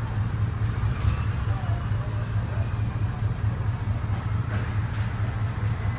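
A vehicle engine idling: a steady low rumble with no revving.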